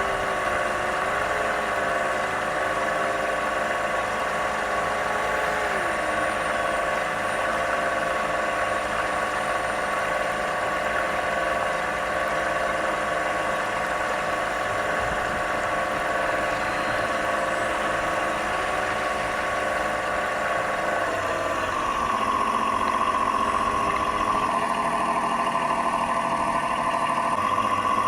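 Simulated engine sound from the sound unit of a 1/12 scale Tyne class lifeboat model, running steadily and stepping up in pitch and loudness after about twenty seconds. The sound wavers because the speed controller driving it was failing.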